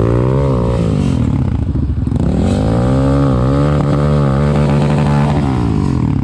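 Quad bike engine revving, its pitch rising and falling several times, easing off for a moment about a second and a half in before picking up again.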